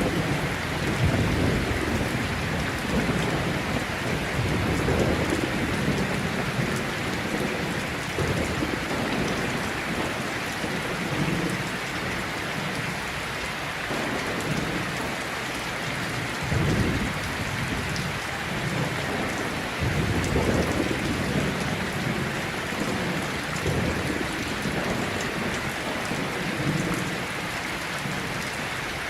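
Steady heavy rain with rolling thunder rumbling low in the background, the rumbles swelling and fading several times, heaviest around the middle.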